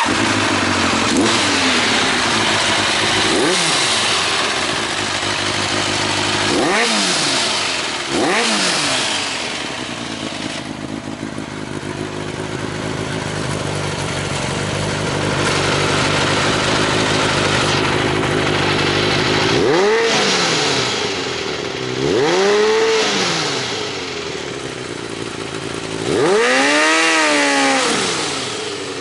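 Kawasaki ZRX1200R's inline-four running through a Nojima full exhaust system, idling with several short throttle blips that rise and fall in pitch; the longest and loudest blip comes near the end.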